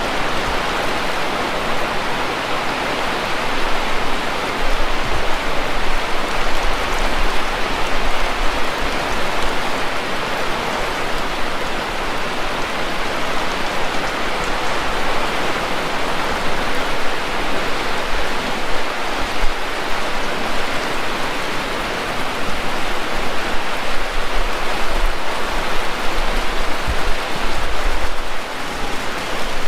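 Heavy rain pouring steadily, a dense, even hiss of rain falling on surfaces, with occasional low bumps underneath.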